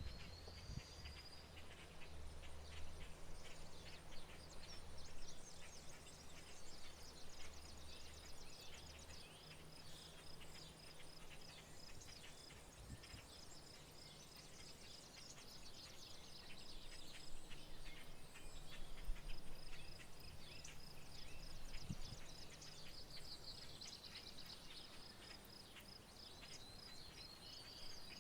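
Outdoor rural ambience of many birds chirping and calling, over a steady, high, evenly pulsed trill. A low hum sits underneath for roughly the first third and then fades.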